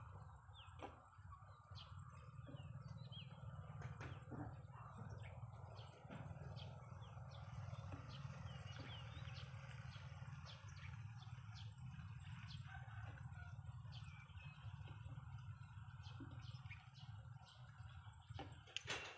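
Birds chirping faintly over a steady low rumble, with many scattered short clicks and a sharper, louder click near the end.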